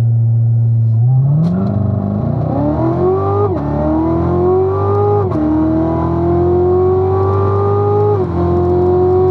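2016 Corvette Z06's supercharged 6.2-litre LT4 V8, heard from inside the cabin, held at steady revs, then launched hard from a standstill about a second in. Its pitch climbs through the gears, dropping sharply at three quick upshifts of the eight-speed automatic.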